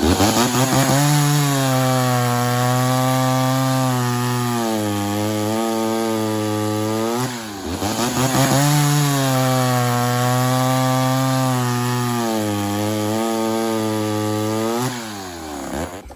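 A ported Poulan 245A two-stroke chainsaw cutting through soft wood under load, twice. The engine revs up briefly between the cuts and again as the bar comes free near the end. The chain is over-aggressive ('hungry') for the saw, so the engine is held down under load in the cut.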